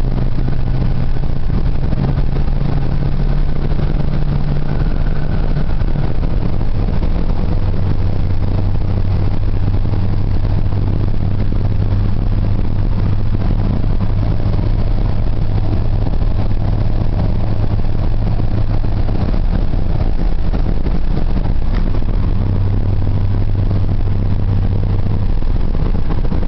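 A 1990 Ford F-150's 4.9-litre (300 cu in) straight-six engine running under way, with a steady hum of road noise. The engine note drops to a lower pitch about seven seconds in and then holds steady.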